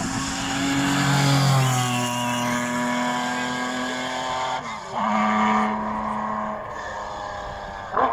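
A classic racing car's engine pulls hard up the hillclimb course at high revs, its note slowly falling. About four and a half seconds in it dips sharply, as at a gear change, then pulls on steadily and fades. A sharp knock comes at the very end.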